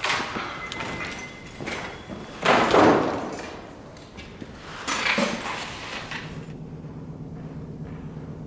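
Industrial banging around a factory: three heavy impacts, the loudest about two and a half seconds in, each dying away slowly, followed by a steady low hum from about six seconds.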